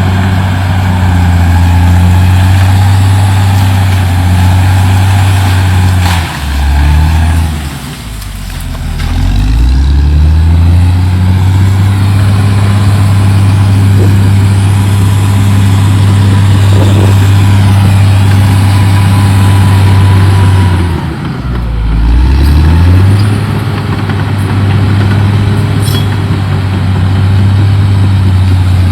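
CAT D6R XL bulldozer's diesel engine running at working revs. The engine note sags sharply and climbs back twice, about seven seconds in and again about twenty-one seconds in.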